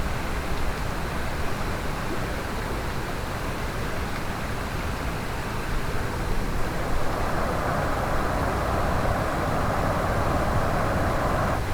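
Mountain stream water rushing, a steady noisy wash with a deep rumble under it; from about seven seconds in the rushing grows louder in its middle range, then drops back suddenly at the end.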